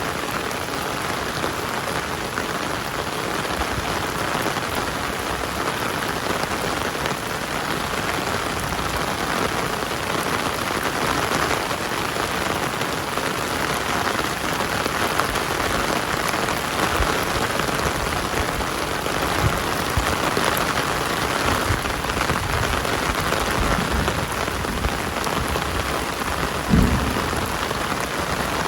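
Heavy rain falling steadily, a dense even hiss. Scattered low thumps come in the second half, the loudest about two seconds before the end.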